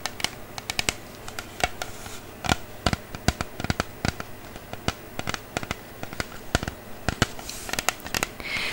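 Fingernails tapping and scratching on a box of Wilson tennis balls: irregular sharp clicks, several a second.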